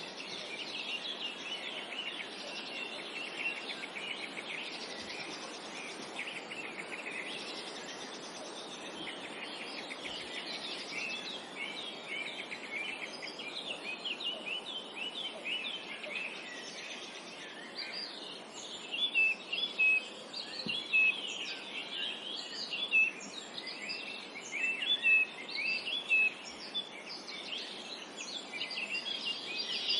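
Several songbirds chirping and trilling in quick short notes over a steady background hiss of forest ambience; the calls grow louder and more frequent in the second half.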